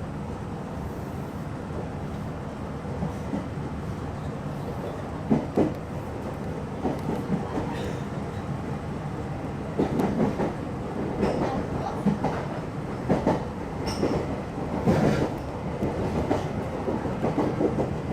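Meitetsu electric commuter train running with a steady rumble. From about five seconds in, a run of irregular clacks and knocks comes from the wheels passing over rail joints.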